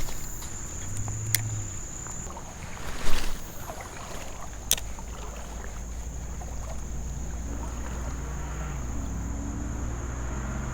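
Creek-side ambience: a steady high-pitched insect drone over a low rumble of moving water and wind, with a few sharp clicks.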